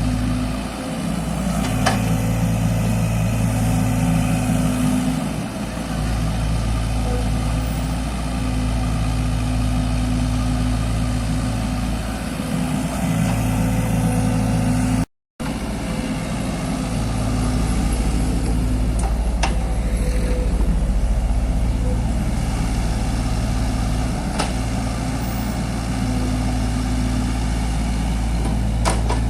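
Mini excavator engine running steadily, its note shifting in strength every few seconds as the machine works, with a few sharp knocks. The sound drops out completely for a split second about halfway through.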